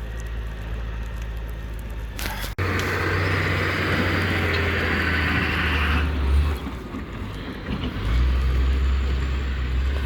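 Road vehicle engine running with a low rumble, joined by a loud steady hiss from about two and a half seconds in to about six seconds; the sound cuts off abruptly about two and a half seconds in.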